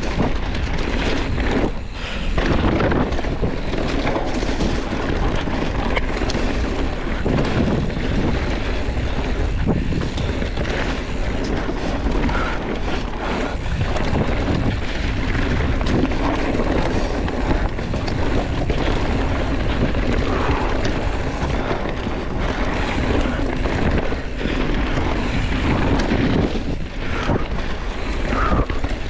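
Steady wind buffeting the microphone, a loud rumbling rush with no breaks.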